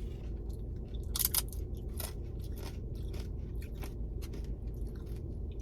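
Close-up crunching and chewing of tortilla nacho chips: many irregular crisp crunches, the loudest a little over a second in.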